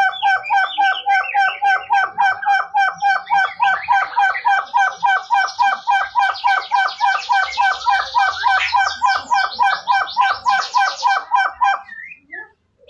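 Hill partridge (puyuh gonggong) calling: a long, fast run of the same short whistled note, about five a second, which stops abruptly near the end. A higher, chattering call runs over it for most of the middle.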